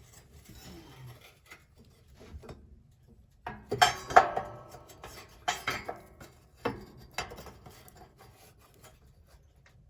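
A metal woodstove burn tube scraping and clinking against its mounts inside the firebox as it is worked back into place, in several short bursts, the loudest about four seconds in. The tube is stuck and will not slide in.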